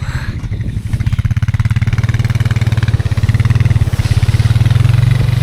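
Four-wheeler (ATV) engine running under throttle in a rapid, even firing beat, growing steadily louder.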